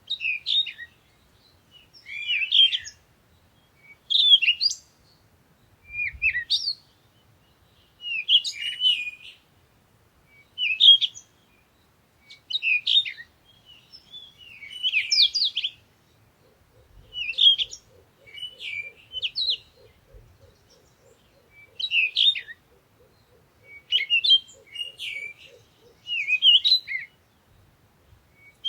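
Songbird singing short, quick chirping phrases, repeated about every two seconds. In the second half a faint, low, rapidly pulsing trill runs underneath for several seconds.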